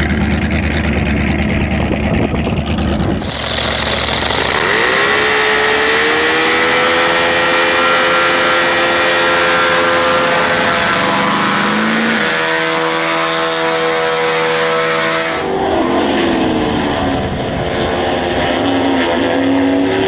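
Racing car engines in several spliced clips. After a low steady rumble, an engine rises in pitch about five seconds in and holds steady revs, changes pitch about twelve seconds in, and then cuts to another engine note that wavers up and down.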